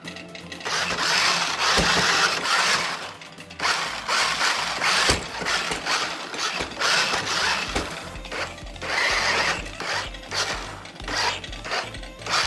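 Toy RC monster truck's four electric motors and plastic gearboxes whirring in bursts as it drives. The loudest bursts come about a second in and again around eight seconds in.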